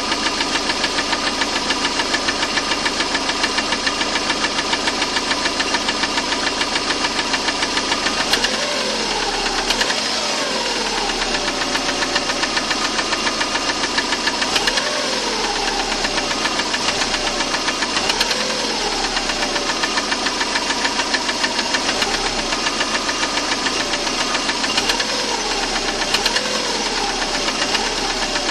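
Subaru EJ205 flat-four engine running with a steady, regular knock. The pitch rises and falls a few times from about eight seconds in.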